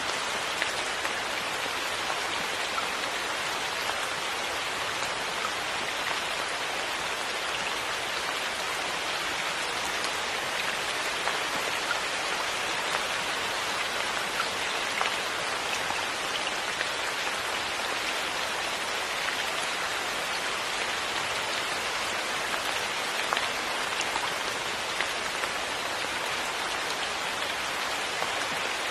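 Steady rain falling, an even hiss with scattered individual drop ticks on hard surfaces.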